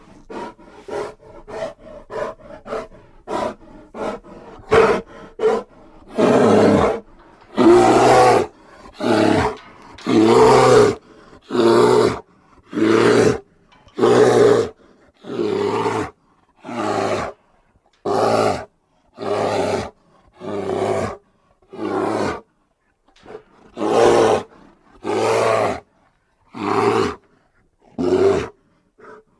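Grizzly bear roaring. First come short, quick growls, then a long series of evenly spaced roars, about one a second, with silent gaps between them.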